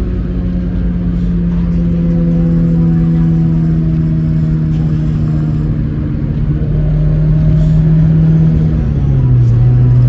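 The four-cylinder engine of an Acura Integra with a freshly installed HKS Hi-Power cat-back exhaust, running at steady revs with an even exhaust note. Its pitch drops a step about nine seconds in.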